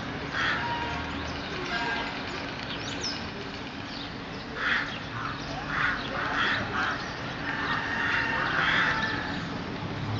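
Birds calling: a series of short calls, clustered from about four to nine seconds in, over a steady low background hum.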